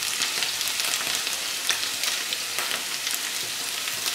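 Potato sticks and chanterelle mushrooms frying in oil in two pans: a steady sizzle dotted with many small crackles and pops.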